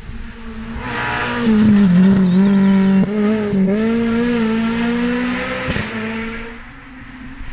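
A rally car's engine coming up loud through a twisty section, its pitch wavering as the throttle comes on and off. There is a sharp crack near the end, and then it fades away.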